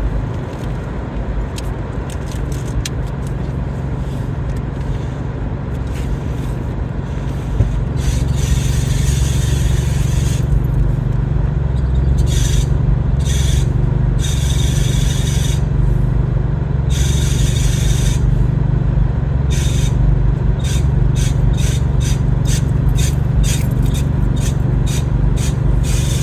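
Car driving with steady engine and road rumble, its suspension or steering squeaking and scraping in rasping stretches, then in quick repeated strokes near the end. The squeak comes from the right-hand side and only when the car turns, not when it goes straight.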